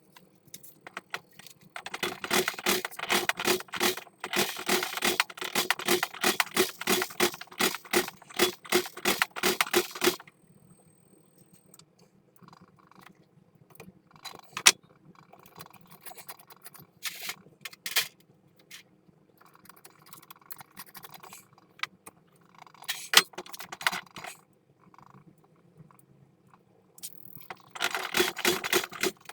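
Rapid metallic clicking and rattling, as of metal tools or parts being handled. A dense run of clicks for about eight seconds is followed by scattered clicks and scrapes, and another dense run starts near the end.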